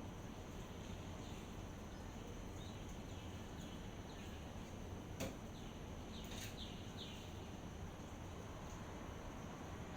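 Steady outdoor background hiss, with faint, short, downward-sliding bird chirps in the middle and a single click about five seconds in.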